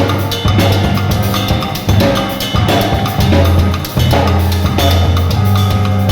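Band music with a drum kit keeping a beat over a sustained bass line.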